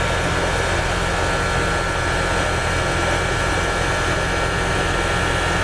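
American Standard air conditioner's compressor running steadily, a constant hum with a faint steady whine, while the refrigerant is pumped down with the contactor held in and the suction pressure falls below 50 psi.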